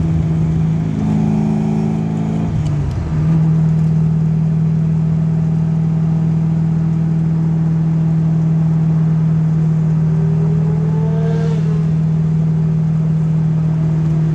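Car engine heard from inside a following car's cabin: it climbs in pitch, drops sharply about three seconds in, then holds a steady drone. A fainter engine rises in pitch briefly near the end.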